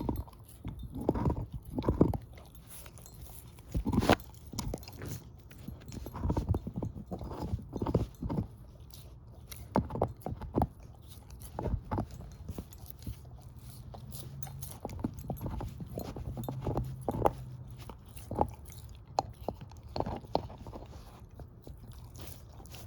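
Shepherd-mix dog gnawing on a bone: irregular loud crunches and cracks of teeth on bone, with quieter chewing between them.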